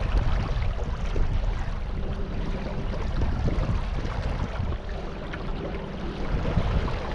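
Wind buffeting the microphone over the wash of water while out on a river on a boat, a steady low rumble with small scattered crackles.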